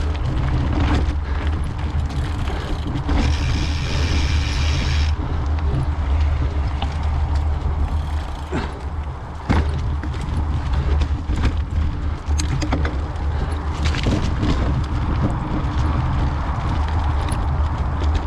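Mountain bike riding over a rough trail: steady wind rumble on the microphone, with scattered knocks and rattles from the bike over bumps.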